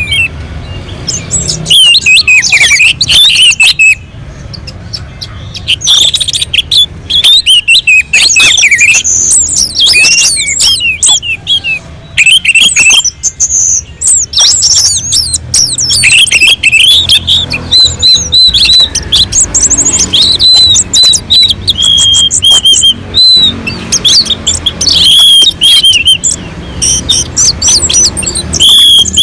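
Orange-headed thrush singing loudly and almost without pause: a fast, varied run of whistles, sweeping notes, chirps and trills, broken by a few brief gaps.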